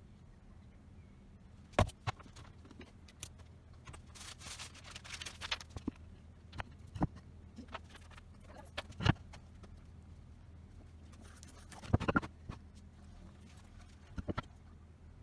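Scattered light knocks, clicks and scrapes of hand tools and metal parts being handled and set down, with short scraping stretches about four seconds in and again near twelve seconds, over a faint steady low hum.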